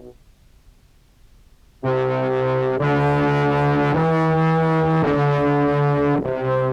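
Contrabass clarinet played through an octave pedal set to one and two octaves down into a fuzz pedal, giving a thick, buzzy, brass-like tone. A note cuts off right at the start; after about two seconds of near silence, a phrase of sustained notes begins and steps to a new pitch about every second.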